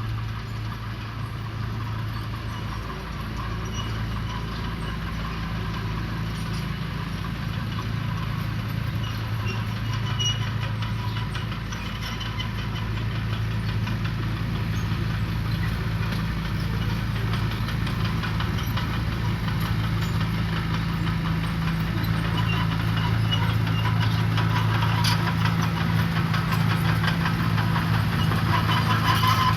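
Diesel engine of heavy road-building machinery running steadily, with light metallic clatter over it; it grows slightly louder toward the end.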